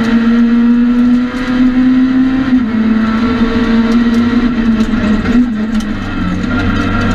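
In-cabin sound of a Citroën C2 R2 Max rally car's four-cylinder engine running hard at high revs. The note holds fairly steady, dropping slightly in pitch about two and a half seconds in and again near the end, with scattered light ticks and knocks from the car.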